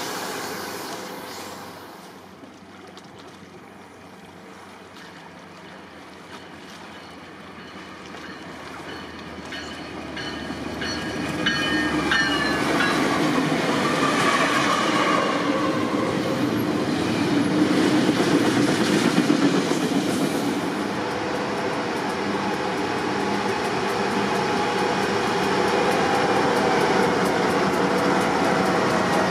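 A freight train going past: diesel locomotives approach and pass about twelve seconds in, followed by the rumble and clatter of the double-stack container cars. Near the end a second freight train, hauling tank cars, is rolling by.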